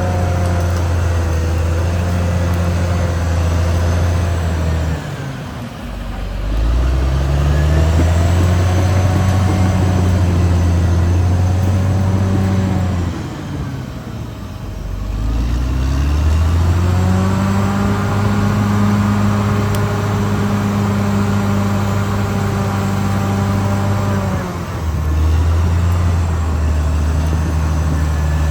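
Caterpillar D6R XL bulldozer's diesel engine running under load. Its pitch drops and climbs back twice, about a fifth of the way in and again around halfway, with a smaller dip near the end.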